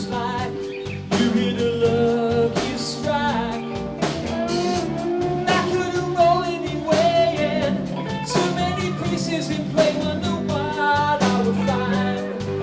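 Live band playing a rock song: a singer over guitar and a drum kit keeping a steady beat.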